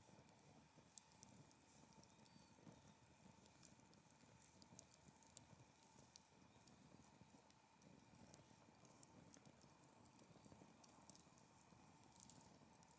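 Faint crackling of a wood fire, with scattered small pops and ticks from the burning firewood.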